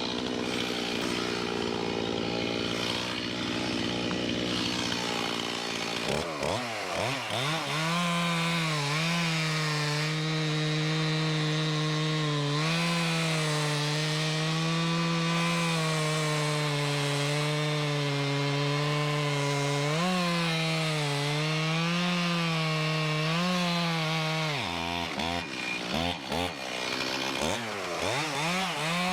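Stihl chainsaw cutting into a red oak log. The engine runs at a lower note for the first few seconds, revs up about six seconds in and holds at full throttle with its pitch dipping as the chain bites into the wood, then eases off and revs back up near the end.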